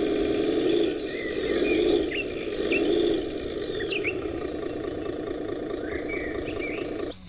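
Handmade radio-controlled miniature truck running, its motor drone swelling and easing three times in the first three seconds, with birds chirping over it. The drone cuts off suddenly just before the end.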